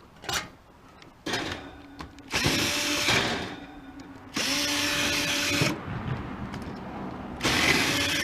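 Cordless drill-driver running in three short bursts of about a second each, with a steady motor whine, backing screws out of sheet metal. A couple of short clicks come before the first burst.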